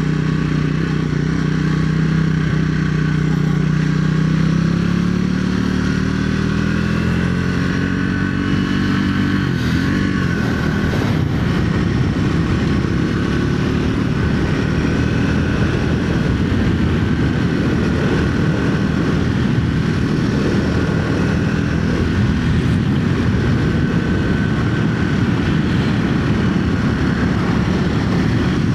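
2025 Triumph Speed 400's single-cylinder thumper engine pulling under acceleration, its note rising steadily for about nine seconds. About ten seconds in the note breaks, then the engine settles into a rougher, noisier steady run.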